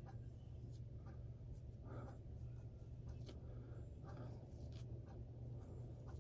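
A comb pulled through a beard in several short, irregular scratchy strokes, the hair tugging as it is combed out.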